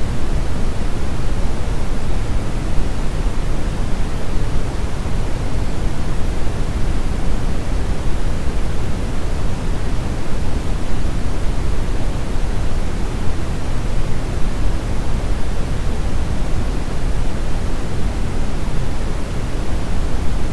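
Steady synthetic brown noise: an even, unchanging hiss-like rumble, heaviest in the lows and darker than white noise.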